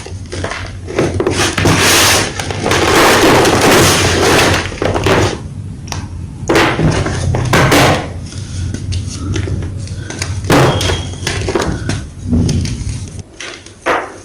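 White gym chalk crunching and crumbling as it is crushed. There is a long stretch of crunching, followed by several shorter crunches.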